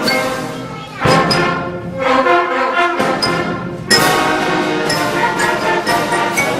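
School wind band playing a piece, with brass to the fore. The whole band comes in with a loud accented entry about a second in and again about four seconds in.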